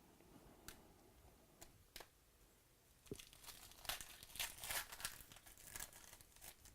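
Foil trading-card pack wrapper being torn open and crinkled: a few faint clicks, then a dense run of crackling from about three seconds in.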